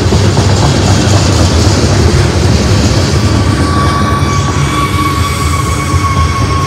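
Manifest freight train of tank cars and autoracks rolling past close by: a steady rumble of steel wheels on rail, with a thin, steady wheel squeal coming in about halfway through.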